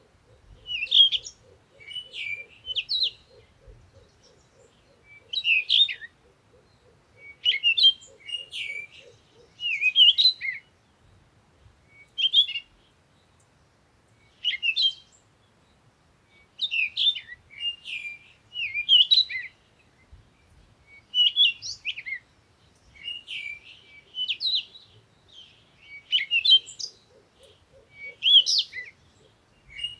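Birdsong: short high chirping phrases that repeat every second or two. Underneath, a lower, rapidly pulsing trill runs through the first third and returns near the end.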